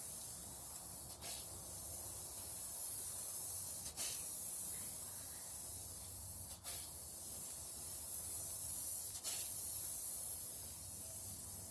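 Black spray paint being sprayed onto a car hood, a steady hiss broken by brief pauses about every two and a half to three seconds between passes.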